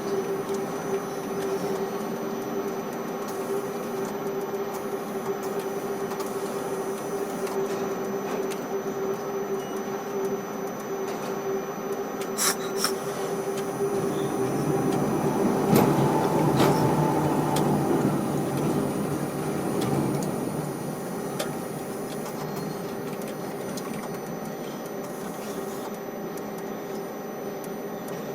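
Quay crane machinery running with a steady hum, which grows louder and rougher for several seconds past the middle; a couple of sharp clicks come just before that.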